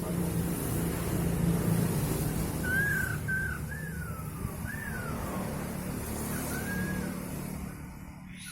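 Poksay hongkong calling: a run of about six short clear whistles, some arched and some sliding downward, over a steady low rumble.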